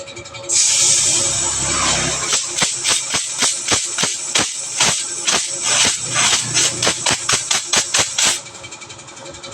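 Pressurized flushing gas hissing through a refrigerator evaporator pipe, with irregular spitting and crackling clicks as it blows the blockage out. The hiss starts suddenly about half a second in and cuts off suddenly near the end.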